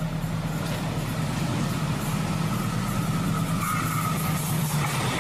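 A steady, low engine-like hum, like a motor vehicle running.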